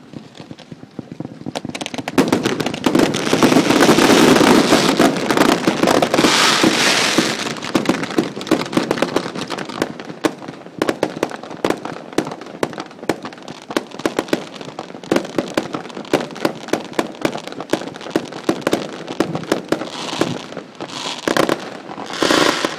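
Set-piece fireworks burning: a dense rush of hissing and crackling pops that swells about two seconds in and is loudest for the next few seconds, then thins to a steady run of sharp crackles, with a few louder surges near the end.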